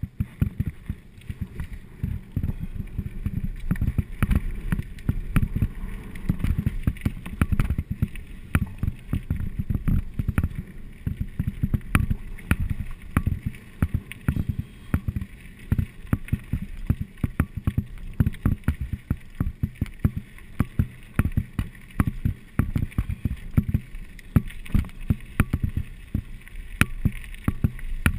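Mountain bike descending a rough trail: a continuous low rumble of tyres over rocks and gravel with rapid, irregular knocks and rattles from the bike.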